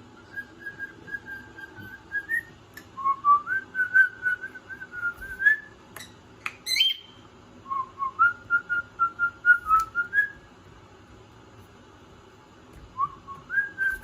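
A pet bird whistling a tune in three phrases of held, slightly wavering notes, each ending on a small rise. A couple of quick, high, upward chirps come between the second and third phrases, and another short whistled phrase starts near the end.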